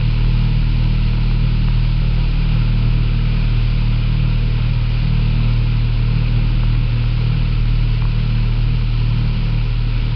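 Motorboat engine running steadily under way: a loud, even low hum with a steady hiss above it.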